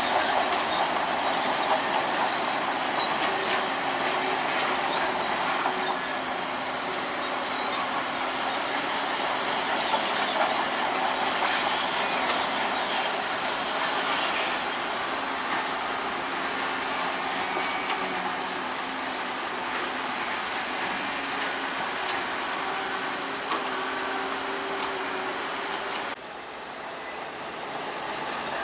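Heavy earthmoving machinery working: a crawler bulldozer's diesel engine running under its steel tracks' continuous metallic clanking and squeal. The sound drops sharply in level near the end, then builds again.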